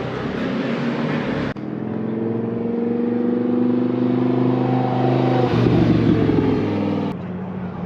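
Sports car engine accelerating, its pitch climbing steadily for a few seconds, then turning rougher about midway. The sound changes abruptly twice, about one and a half seconds in and near the end.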